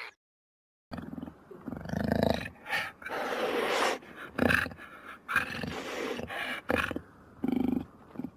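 An animal's repeated low calls, one after another with short gaps, starting suddenly about a second in after a brief silence.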